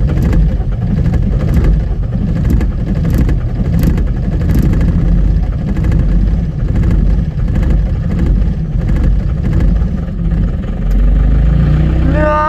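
Diesel skid steer engine running loud and uneven just after a very cold start, without a block heater, heard from inside the cab. It settles a little steadier near the end.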